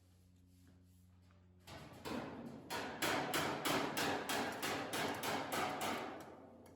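Rapid series of hammer blows, about four a second, starting about two seconds in and dying away near the end.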